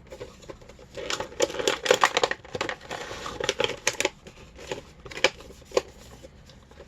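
Plastic toy packaging being handled: crinkling and rustling with many small clicks, then a few separate sharp clicks near the end.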